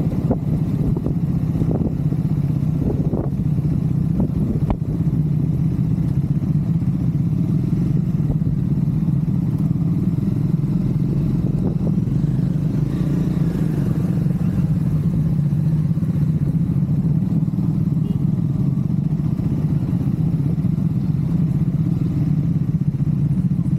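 Triumph Scrambler 400 X's single-cylinder engine running steadily while the motorcycle is ridden, with a few sharp knocks in the first five seconds.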